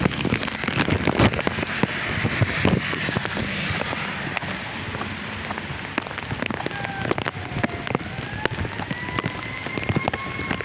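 Rain falling, with many close drops ticking sharply on a surface over a steady hiss. A thin, slowly rising tone joins in the second half and holds to the end.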